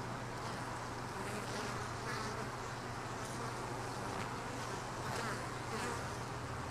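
Honeybees buzzing steadily: the continuous hum of many bees around an open hive.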